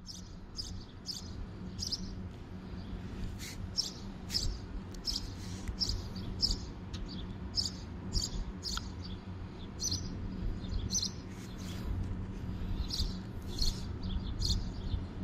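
Small birds chirping, short high chirps about two a second, over a low steady rumble.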